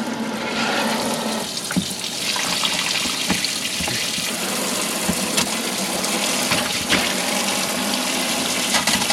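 A boat's live well filling: water from the live well pump pours steadily into the tank, with a few light knocks.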